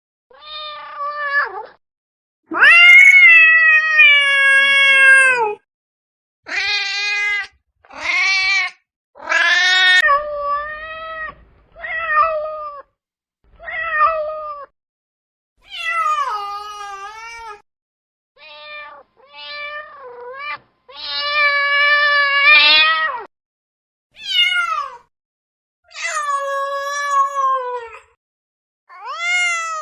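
A cat meowing over and over, more than a dozen meows with silent gaps between them. Some are short and some are drawn out for two to three seconds, the loudest and longest coming about three seconds in.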